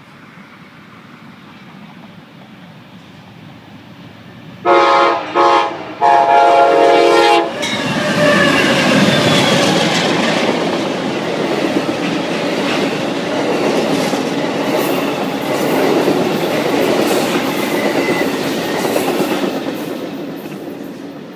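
Amtrak GE P42 diesel locomotives sound their air horn in three blasts, the last the longest, as the train approaches. The locomotives then pass close by with a loud rumble, followed by Superliner passenger cars clattering over the rails, and the sound fades as the train moves away near the end.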